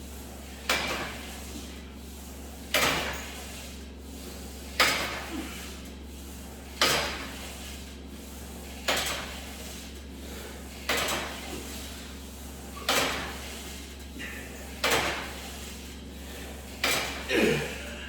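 A 90 lb cable-machine weight stack clanking about every two seconds through a set of rope crunches. The clank comes nine times, each one sharp and quickly fading, over a steady low hum.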